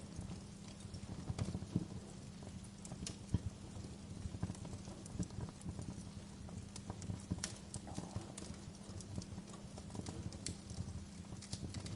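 Wood fire crackling in a fireplace: irregular pops and snaps, some sharper than others, over a steady low background sound.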